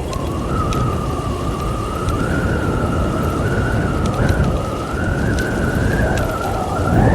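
A steady, slightly wavering high whistle over heavy low wind rumble on the microphone while riding a motorbike. The rider takes the whistle for an unusual wind noise. Near the end a short sound sweeps up in pitch.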